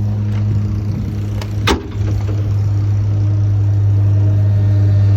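Ford bucket truck's engine running steadily with a low, even hum, with one sharp click a little under two seconds in.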